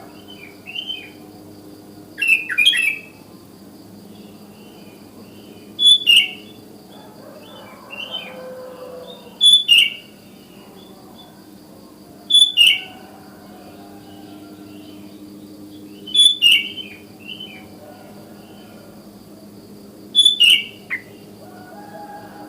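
Sooty-headed bulbul (kutilang) singing in the wild. It gives short, loud phrases of quick falling notes six times, about every four seconds, with softer chatter in between.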